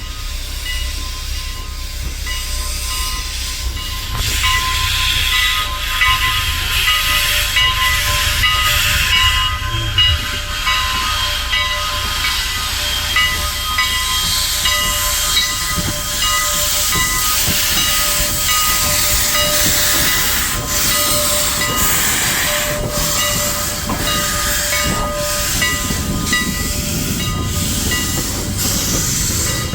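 Steam locomotive hissing steam, with several steady high whining tones over a low rumble.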